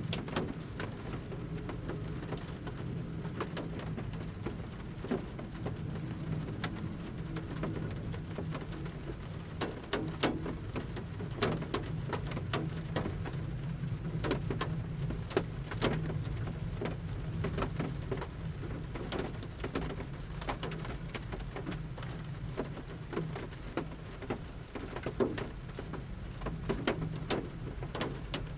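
Large raindrops falling from the forest canopy onto a camper van's roof, pattering at irregular intervals, with a low steady rumble underneath.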